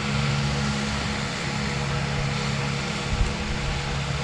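Steady mechanical hum, with a single low thump about three seconds in.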